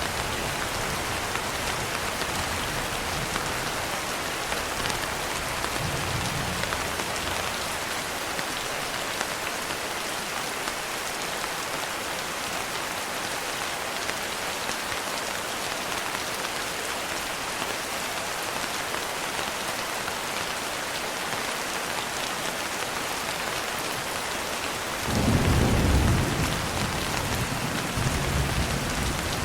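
Steady rain falling on a surface, an even hiss throughout. Near the end a low thunder rumble rises, the loudest moment, and a weaker rumble follows.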